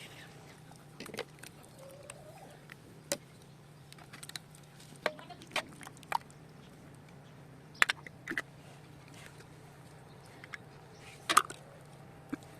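A dozen or so sharp clicks and knocks at irregular intervals, as of objects being handled and set down, over a steady low hum.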